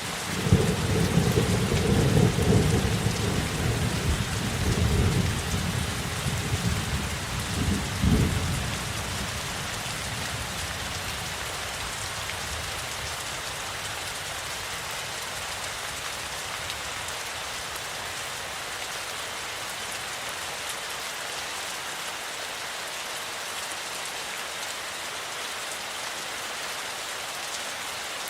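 Steady rainfall, with a long roll of thunder rumbling over it for the first eight seconds or so. The thunder ends in a last loud clap and fades, leaving only the rain.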